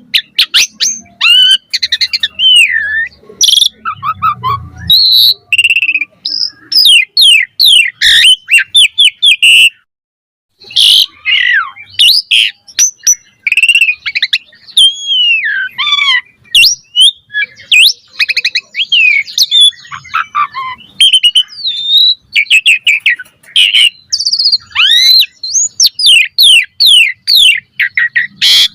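Asian pied starling (jalak suren) in full, fast song: a dense run of varied whistles sliding up and down, mixed with sharp, scratchy chirps. There is a brief break about ten seconds in.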